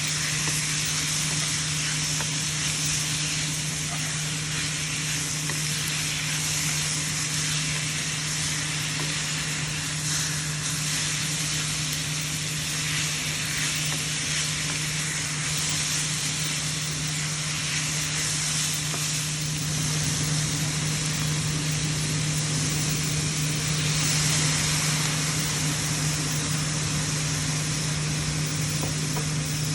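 Food sizzling as it is stir-fried in a hot pan, a steady frying hiss, with a steady low hum underneath.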